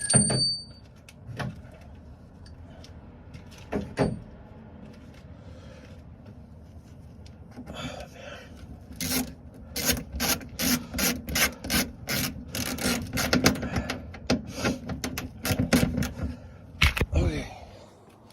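Hand ratchet wrench worked back and forth on a bolt, a run of rasping strokes about two a second, after a few sharp tool clicks near the start.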